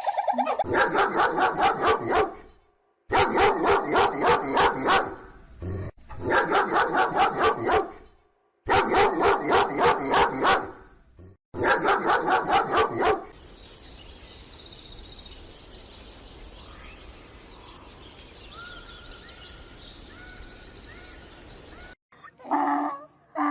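A dog barking rapidly, about five barks a second, in five bursts of roughly two seconds each. Then the barking stops, leaving quieter background with faint short bird whistles, and a louder animal call starts near the end.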